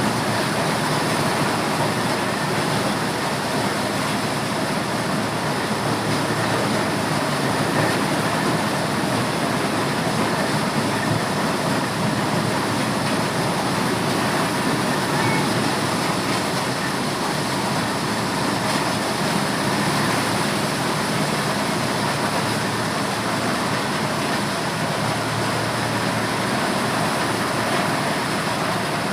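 Motorised corn sheller running steadily, a loud continuous mechanical noise without let-up as it threshes corn.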